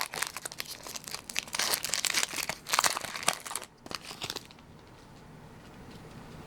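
Foil wrapper of a Pokémon booster pack being handled and torn open, a dense crinkling and crackling that stops about four and a half seconds in.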